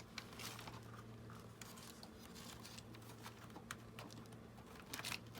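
Faint scattered ticks and light rustling of fingers working a small metal eyelet through a punched hole in a junk journal cover, over a low steady hum.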